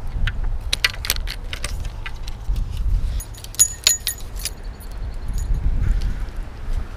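Fishing tackle being handled: a quick run of small clicks, then light metallic jingling about three and a half seconds in, over a steady low rumble.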